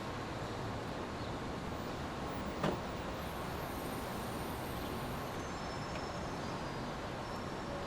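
Steady noise track for sleep: an even, unbroken hiss spread from low to high pitch, with one brief click a little under three seconds in.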